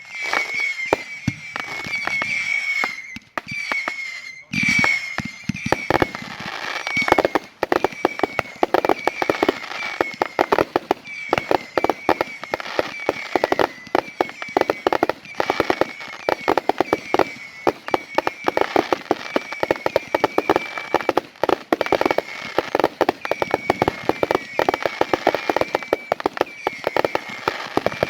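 Fireworks going off: a dense run of rapid bangs and crackles that thickens from about six seconds in, over a high whistling tone that keeps coming back.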